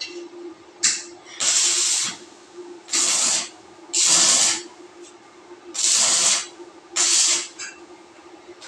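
Power sprayer spraying in six short bursts, each a hiss under a second long, with a steady hum underneath.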